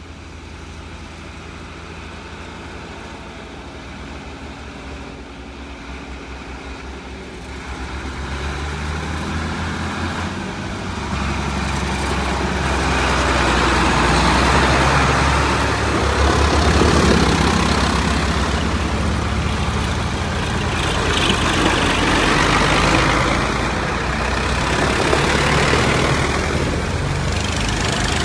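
Tractor engines running with a deep steady rumble, growing much louder from about eight seconds in and staying loud through the second half.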